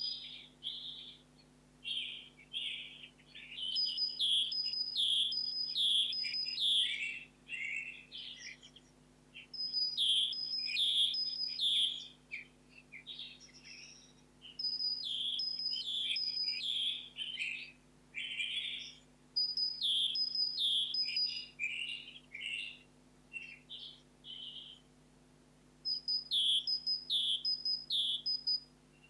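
Songbird singing: phrases of quick, high, bright notes, each a couple of seconds long, repeated after short pauses about eight times.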